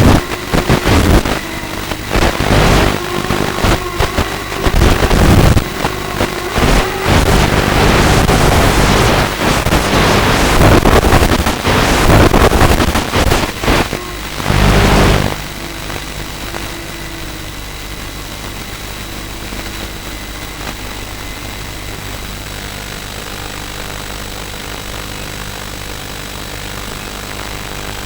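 Walkera F210 racing quadcopter in flight: its motors and propellers surge up and down with the throttle amid a noisy rush of air. About 15 seconds in, the sound drops sharply to a steadier, quieter hum.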